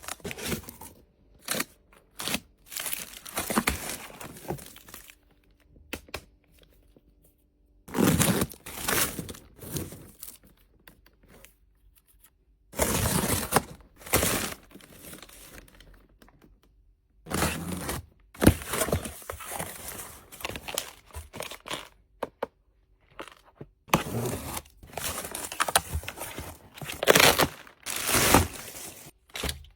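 Packaging being opened by hand: irregular bursts of tearing and crinkling, some lasting a second or more, with short pauses between them.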